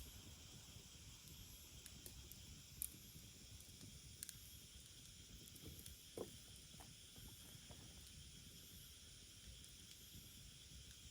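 Wood fire burning faintly, with a few scattered crackles and pops.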